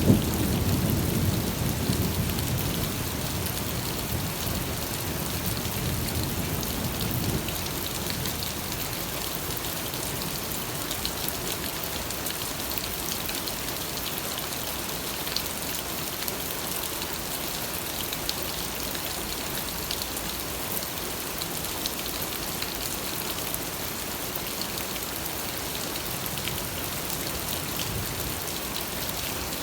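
Steady heavy rain pattering on a surface, with many small drop ticks. A low rumble of thunder rolls at the start and dies away within the first several seconds.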